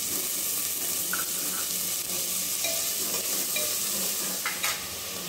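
Fresh green peas sizzling in hot oil with whole spices in a pressure cooker pan, stirred with a spoon that clicks lightly against the pot a few times.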